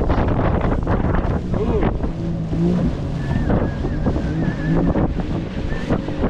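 Wind buffeting the microphone on a small boat at sea, over the wash of water and waves. A faint wavering high whistle runs for a few seconds in the middle.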